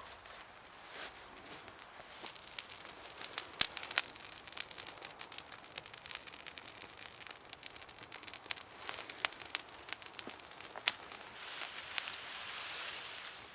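Wood campfire crackling and popping in many sharp, irregular snaps over a soft hiss, with the hiss swelling louder briefly near the end.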